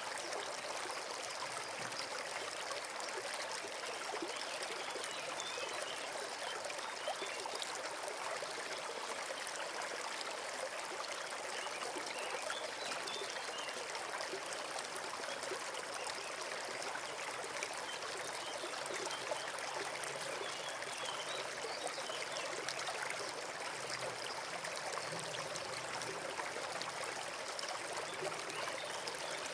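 Small forest stream running and trickling steadily.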